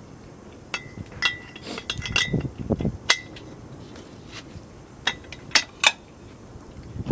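Metal cookware and utensils clinking and knocking against each other in a string of separate sharp strikes, some with a brief ring, with a few duller knocks in between.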